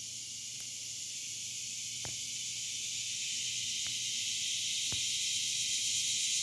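Steady high-pitched hiss of an outdoor insect chorus, slowly growing louder, with a few faint clicks.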